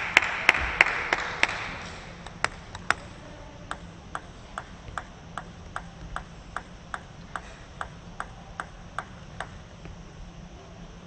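Applause fading out, then a celluloid-type table tennis ball clicking in an even run of about two sharp pings a second, growing fainter and stopping near the end.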